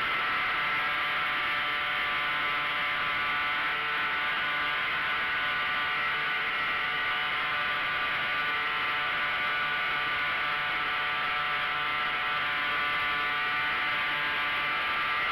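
Quarter-scale RC model airplane's motor and propeller running steadily at high power in flight, a buzzing drone that holds an even pitch.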